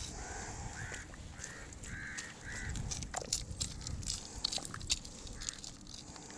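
A bird calling over and over in short harsh calls, five in quick succession in the first three seconds and a few fainter ones near the end, over a low background rumble.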